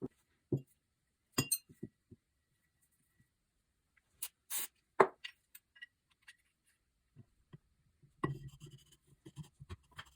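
Metal engine parts clinking and knocking as they are handled: separate sharp clicks and knocks, then a run of quick light taps and rattles near the end.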